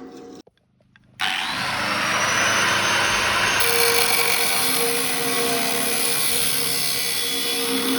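A power saw starts about a second in, its whine rising and then holding steady as it runs on, cutting.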